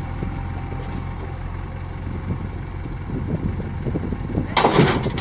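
JCB backhoe loader's diesel engine running steadily, then a loud rattling crash of stone near the end as a load is dropped into a tractor's tipper trailer.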